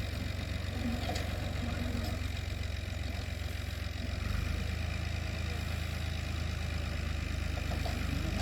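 Fiat 480 tractor's diesel engine running steadily, its note shifting about four seconds in.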